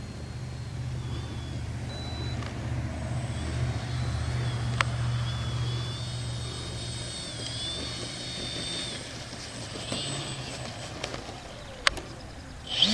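A steady low engine hum that fades away about two-thirds of the way through. Over it is a faint, thin, wavering high whine, and there are two sharp clicks.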